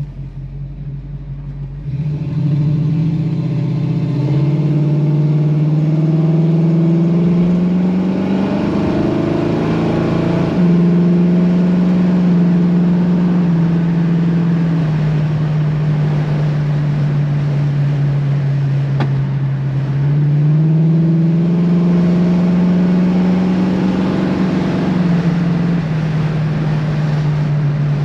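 1964½ Ford Mustang's 260 V8 running under acceleration, its pitch rising for several seconds and then dropping sharply at a gear change about ten seconds in. It cruises steadily, then climbs again around twenty seconds and eases off near the end.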